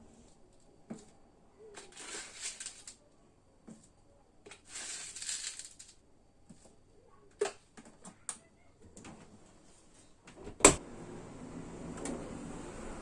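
Household cleaning and handling sounds: two short hissing scrapes, a few light clicks, and one sharp knock about ten and a half seconds in, after which a steady rushing noise sets in.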